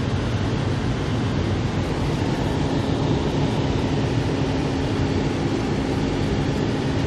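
Steady low rumble of a passenger train running along the track, heard from inside the coach. A faint steady hum joins it about two and a half seconds in.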